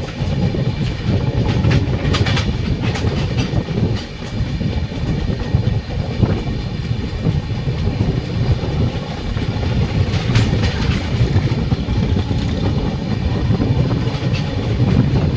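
Express train 14006 running along the track: a steady rumble of wheels on rails, with the clatter of the wheels passing over rail joints.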